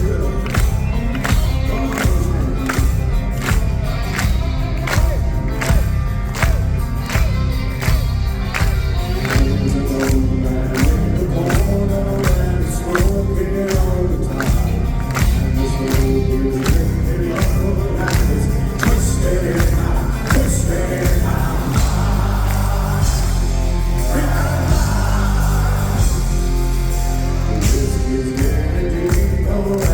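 Heavy metal band playing live in a hall: loud drums on a steady beat, distorted guitars and bass, with singing over them. About two-thirds of the way through, the drums drop back for a few seconds under held low chords, then the full beat returns near the end.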